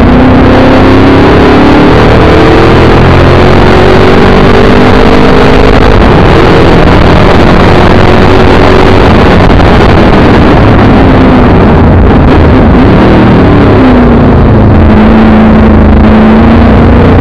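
A TVR Tuscan's Chevy 383 small-block V8, heard from inside the car on track: the engine pulls with its pitch climbing slowly, drops away about thirteen seconds in as the car slows for a corner, then picks up again near the end. The sound is very loud, with wind and road noise under the engine.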